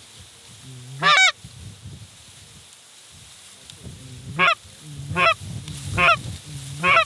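Goose honks, five in all: one about a second in, then four in quick succession from about four seconds in. Each call starts low and breaks sharply upward into a high, bright honk.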